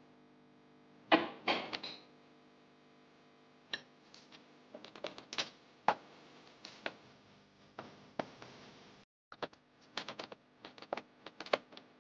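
Scattered clicks, taps and knocks from handling and fitting refrigerator panels and parts, the loudest knocks about a second in, over a faint steady hum.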